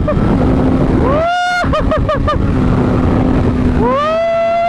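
Honda CBR600RR's inline-four engine through an aftermarket Toce exhaust, revving high under hard acceleration: it climbs to a high steady pitch about a second in, drops briefly several times in quick succession, then climbs and holds high again near the end. Wind rushes over the microphone.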